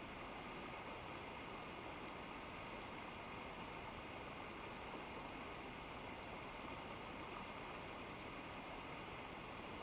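Steady rushing of a mountain river or waterfall, a constant even noise with no changes.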